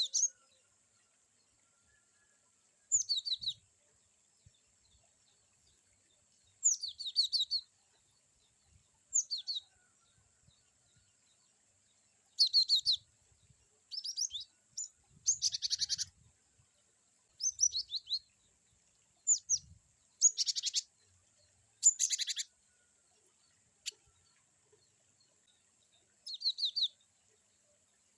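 Cinereous tit (gelatik batu) singing short, rapid 'wucit-wucit' phrases of high repeated chirps, about a dozen bursts with brief pauses between them, the phrases varying from one to the next.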